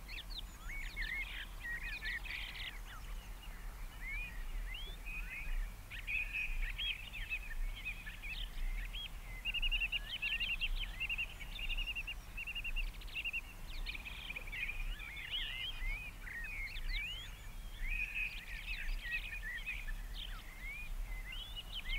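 Several songbirds chirping and singing together, a busy run of short rising and falling chirps and quick trills, over a faint steady low hum.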